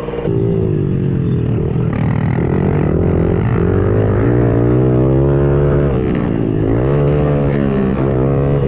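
110cc four-stroke pit bike engine being ridden hard, its pitch rising and falling again and again as the throttle is worked and the gears change.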